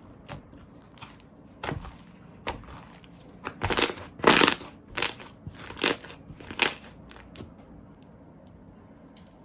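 Slime being pressed and worked by hand, giving a series of sharp crackling pops. They are loudest a little over four seconds in and thin out after about seven seconds.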